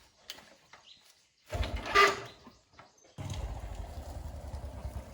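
Motorbike engine being started: a brief first burst about one and a half seconds in that dies away, then the engine catches at about three seconds and idles with a steady pulse. Light clicks of handling come before it.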